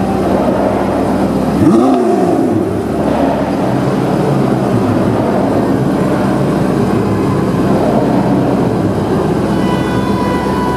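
Porsche 918 Spyder's V8 idling, with one quick rev blip a little under two seconds in that rises and falls straight back to idle.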